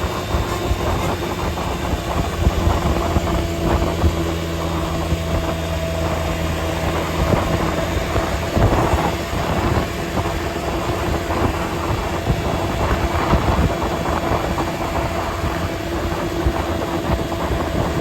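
Vehicle engine running with road noise: a steady hum over a noisy rush. A lower hum drops out about seven seconds in.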